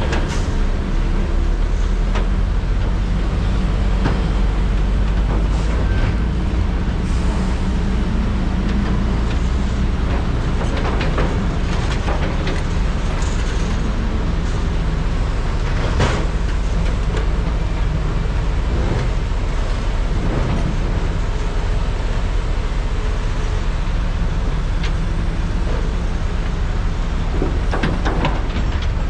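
Large hydraulic mining excavators' diesel engines running steadily under load while loading trucks, with occasional short knocks, the clearest about halfway through and a few more near the end.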